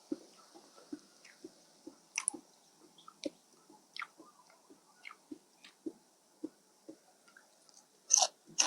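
A person chewing food, a soft wet chew about three times a second, with a few louder, sharper mouth clicks around two seconds in and again near the end.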